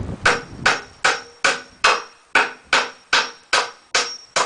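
Hammer driving nails into pallet-wood boards, a steady run of about eleven blows at roughly two and a half a second, each with a short metallic ring.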